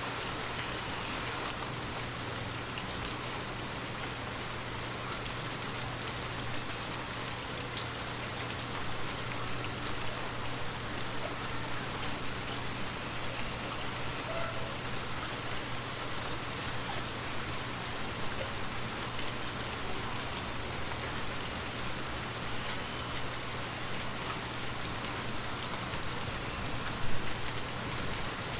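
Steady rain falling, an even hiss of many drops with no let-up, over a low steady rumble. A brief louder splash or gust rises near the end.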